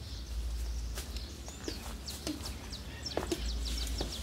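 A bird calling: a quick run of short, high chirps, each falling in pitch, starting about a second in, with a few light clicks and taps underneath.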